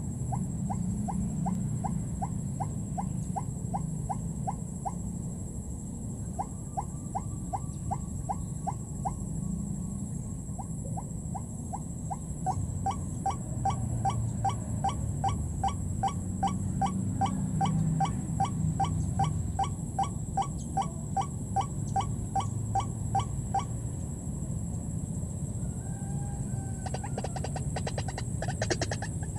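White-breasted waterhen (ruak-ruak) calling: a long series of short, even notes, about three a second, with two brief pauses in the first ten seconds, stopping a few seconds before the end.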